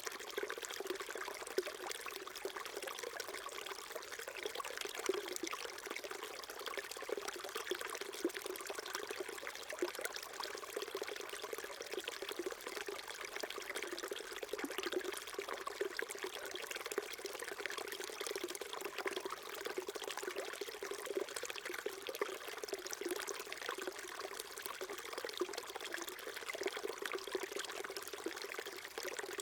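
Small mountain stream flowing and trickling over rocks, a steady babbling rush of water that does not let up.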